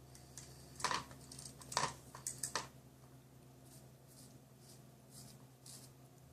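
A cat batting at a hummingbird cat toy: a quick run of sharp clicks and scuffs about a second in, the loudest two nearly a second apart, then only faint scattered ticks.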